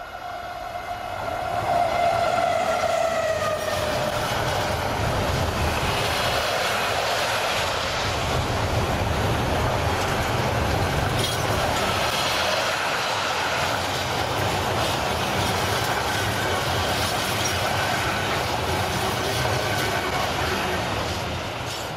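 Freightliner Class 70 diesel locomotive passing, its engine whine dropping in pitch as it goes by. Then comes the steady rumble and clatter of a container freight train's wagons rolling past, easing off near the end as the last wagons clear.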